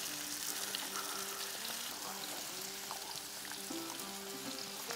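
Food sizzling in hot oil in small cast-iron pans on a gas grill, a steady hiss with background music underneath.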